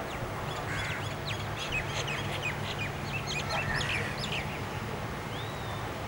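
Small birds twittering: a rapid flurry of many short, high chirps sliding downward in pitch for about four seconds, then a single short whistled note near the end, over a steady low hum.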